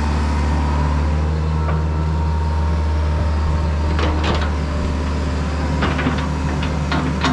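Diesel engine of heavy earthmoving equipment running steadily, with several sharp metallic clanks from about four seconds in.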